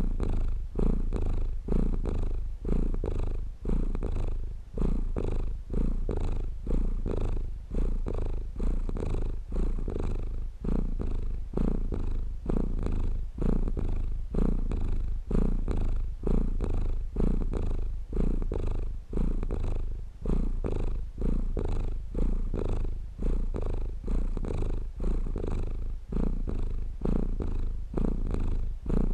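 Domestic cat purring steadily, the purr swelling and dipping in an even rhythm with each breath, about once a second.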